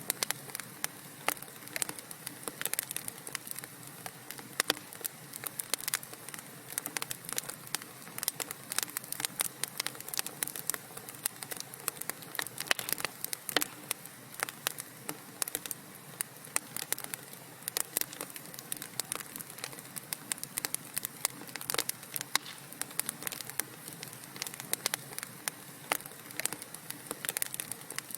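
Wood fire crackling in a fireplace: dense, irregular pops and snaps over a steady soft hiss.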